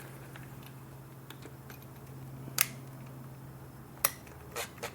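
A few sharp metallic clicks and taps of hand tools and loose Torx screws being worked out in an engine bay, the loudest about halfway through and another near the end, over a faint steady low hum.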